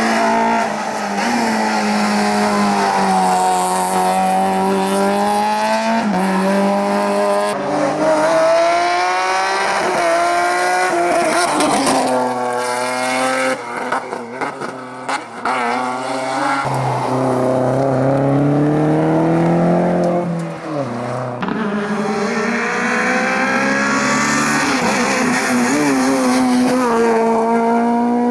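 Rally cars driven at full attack, engines revving hard and dropping back again and again through gear changes and braking, one car after another.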